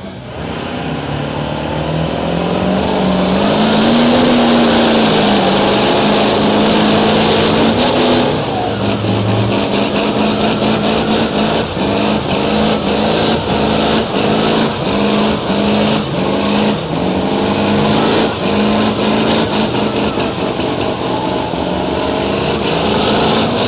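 Mud truck's big-block engine running hard at full throttle through a pull. The revs climb over about four seconds and hold high, then from about eight seconds in they surge up and drop back again and again, roughly once a second, for the rest of the run.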